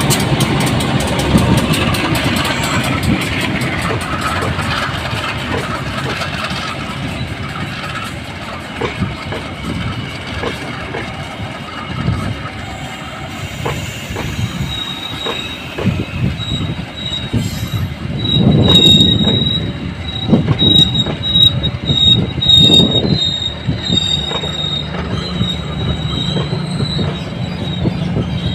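Diesel-hauled passenger train rolling slowly past as it comes into the station to stop: the CC 203 diesel-electric locomotive's engine rumble in the first seconds, then the coaches' wheels clacking and thumping over the rails, with a steady high wheel or brake squeal from about halfway on.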